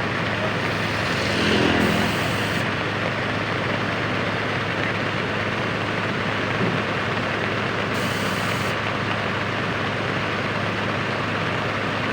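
Heavy diesel engine of road-construction plant running steadily, with a brief rise in a rev about one and a half seconds in, as a pneumatic-tyred roller is loaded onto a truck.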